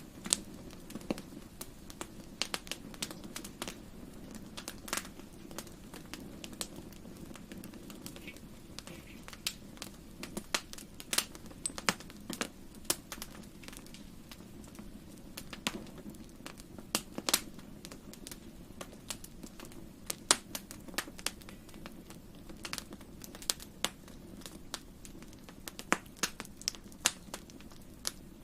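Fireplace fire crackling: irregular sharp pops and snaps, several a second at times, over a low steady rumble.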